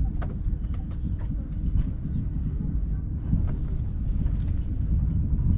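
Low rumble of a TGV Duplex train pulling slowly out of the station, heard inside the carriage, with scattered light clicks and knocks.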